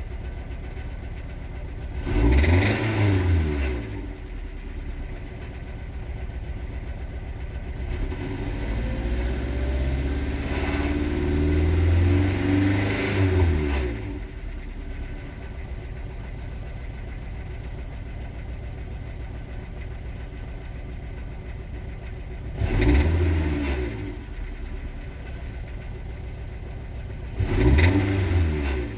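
Toyota AE86's stock 1.6-litre twin-cam four-cylinder 4A-GE engine idling, revved up briefly about two seconds in, held at higher revs for around six seconds from about eight seconds, then blipped twice more near the end. The owner complains of a rough idle and a knocking sound that he has been unable to trace.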